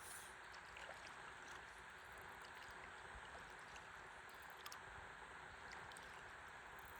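Faint, steady river water flowing and lapping around a stand-up paddleboard, with a few light clicks and drips.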